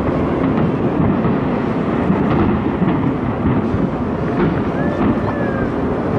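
Aerial fireworks shells bursting in quick succession during a large display: a continuous rumble of overlapping booms and crackle with no gaps between them.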